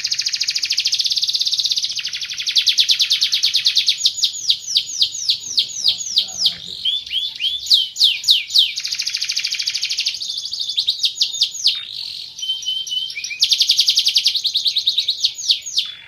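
Domestic canary singing a long, unbroken song: fast rolling trills and runs of quick, downward-sweeping high notes, changing tour every few seconds.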